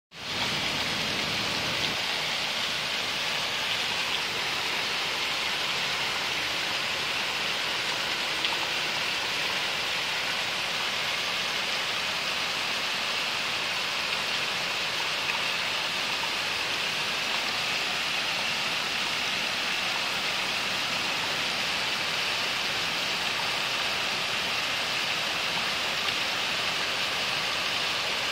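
Heavy downpour: rain falling hard and steadily, a continuous even hiss.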